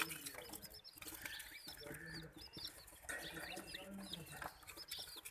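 A group of chicks peeping continuously, many short high chirps overlapping, with a few lower clucking calls underneath.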